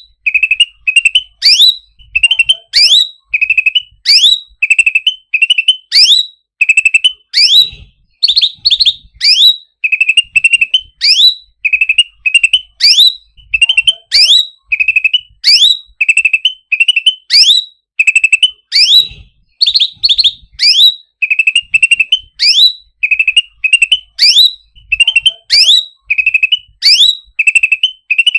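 Cucak ranting songbird calling over and over: a quick run of chirps followed by sharp rising whistles, repeated about once a second.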